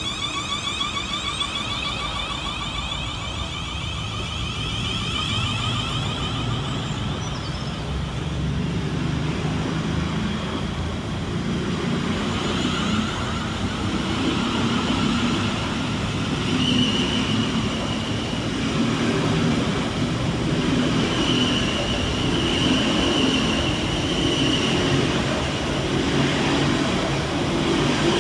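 Three coupled Class 450 Desiro electric multiple units running through the station, their traction motors whining over a low rumble that grows louder.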